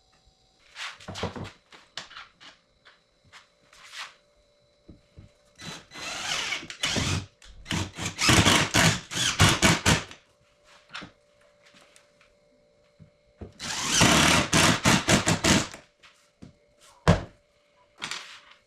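A handheld power tool running in two loud spells, with scattered knocks and thunks of wood between them.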